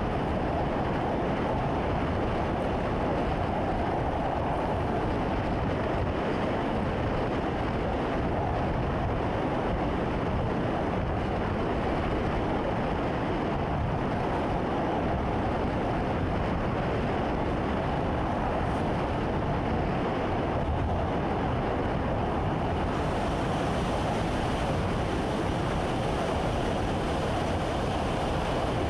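Train running at steady speed, heard inside the driver's cab as an even rumble and hiss. A little more high hiss comes in about two-thirds of the way through.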